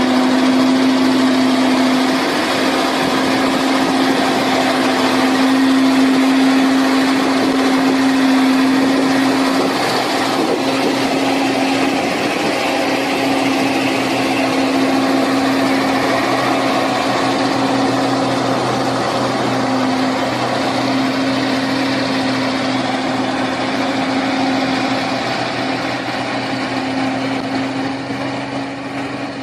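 A vehicle engine running loudly at a steady speed: a constant hum that climbs in pitch just at the start and then holds, with noise around it.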